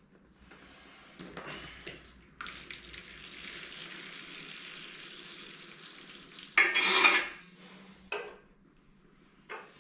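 Metal tools and engine parts being handled: clinks and clanks, a steady hiss lasting a few seconds, then a loud scraping clatter about two-thirds through.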